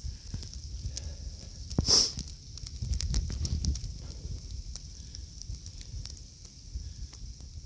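Outdoor ambience in a heavy snowstorm: a low rumble of wind on the microphone and a steady crackle of many small ticks, with one loud, short, hissing burst about two seconds in.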